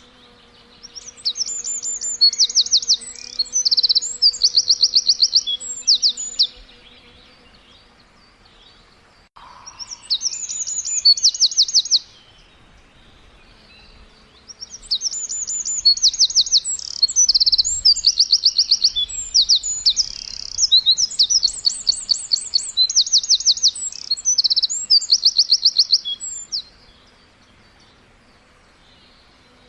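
A songbird singing in three bouts of rapid, high-pitched trilled chirps, with pauses of a few seconds between them.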